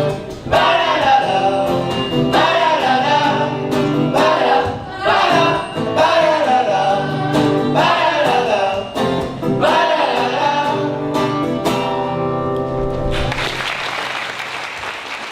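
A school choir sings the closing phrases of a song with instrumental accompaniment and ends on a long held chord. Applause starts about two seconds before the end.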